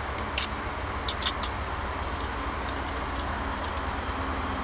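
A few light, sharp clicks and taps, clustered in the first two seconds, over a steady low background rumble.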